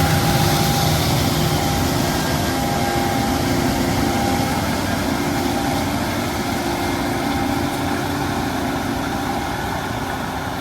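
Case IH AF10 Axial-Flow combine running steadily while harvesting corn, its engine and threshing machinery heard as a continuous dense drone with a few steady hum tones that fade a few seconds in; the overall sound eases slightly toward the end.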